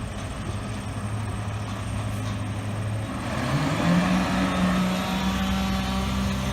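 Large truck engine running; about halfway through its pitch climbs and holds higher as it revs up and gets louder.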